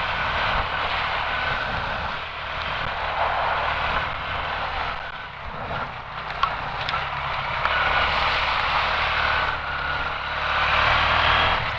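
Quad (ATV) engine running while riding, with a dense hiss of heavy rain and wind on the microphone over it.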